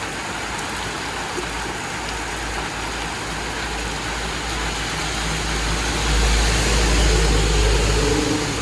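Steady hiss of rain with a motor vehicle's engine running under it. The engine's low rumble grows louder about six seconds in, then eases near the end.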